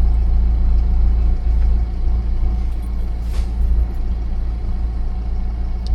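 Recovery truck's engine idling, a steady low rumble heard from inside the cab.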